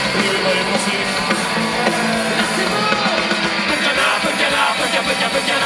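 Punk-rock band playing live, with singing over the band.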